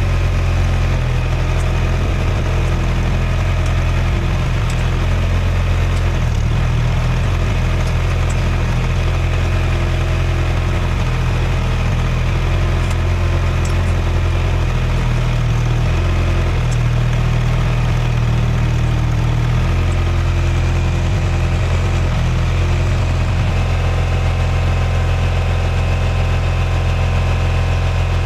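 An engine idling steadily with a low drone, its tone shifting slightly now and then.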